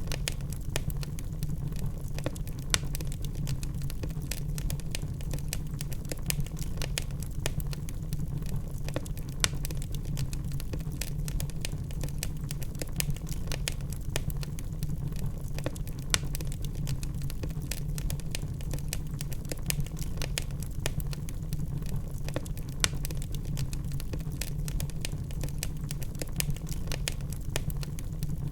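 Wood fire burning in a fireplace: logs crackling with frequent irregular pops and snaps, a few louder than the rest, over a steady low rumble.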